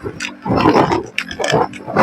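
Wind gusting over the microphone on a moving motorcycle, twice, over the steady low hum of the bike's engine.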